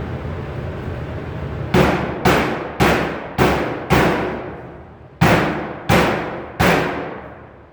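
Hammer blows on sheet metal: five strikes about half a second apart, then after a short pause three more, each ringing out. A steady low rumble is heard before the first blow.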